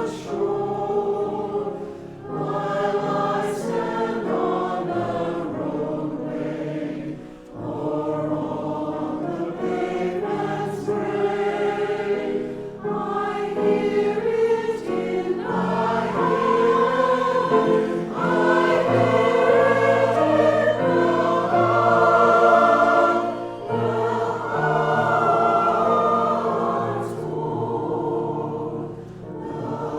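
A choir singing a slow piece in several parts. The voices hold chords, with brief breaths between phrases, and swell louder toward the middle.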